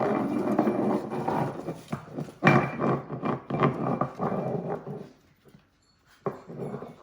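Dachshunds vocalizing in two long, rough stretches, broken briefly about two seconds in, then falling silent for about a second near the end before a short final burst.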